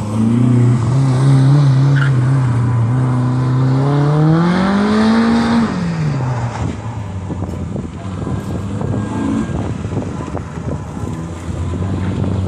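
Racing truck's engine running: it revs up steadily, drops off sharply about six seconds in, and then runs on with a rougher, crackly sound.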